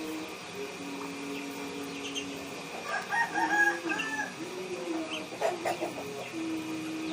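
Fantail pigeons cooing in long, low, steady notes. About three seconds in, a louder, higher, wavering call from a chicken cuts across them, and a few short clicks follow about five and a half seconds in.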